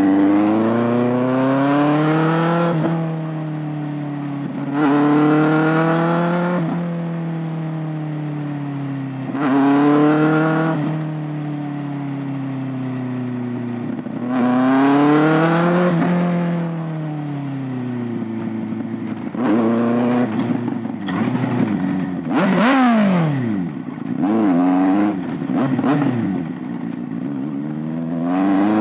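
Kawasaki ZX-6R 636 inline-four engine and exhaust revving up and falling back four times in long swells. Over roughly the last ten seconds it gives a run of quicker, shorter rev blips.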